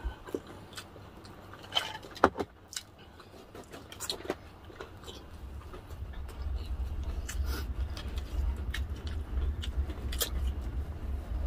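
Close-up eating sounds of fried chicken being chewed, with scattered small clicks and mouth noises, a few louder ones early on. From about halfway a low rumble sits underneath.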